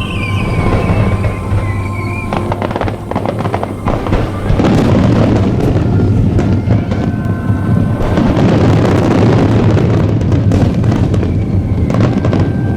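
A large fireworks display: shells bursting and crackling in quick succession, thickening into a dense barrage about a third of the way in, with music playing alongside.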